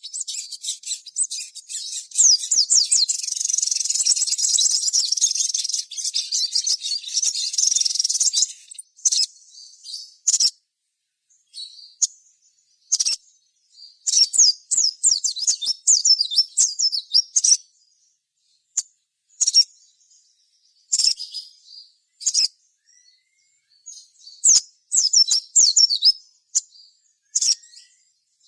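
Sogon songbird singing high-pitched rapid chirps and trills: a dense, nearly unbroken run of song for the first eight seconds or so, then shorter bursts of chirping separated by pauses.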